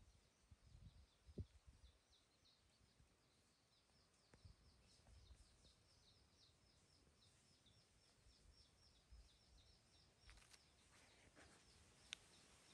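Near silence with a faint background bird giving a rapid run of short, high chirps, several a second, and a few soft clicks near the end.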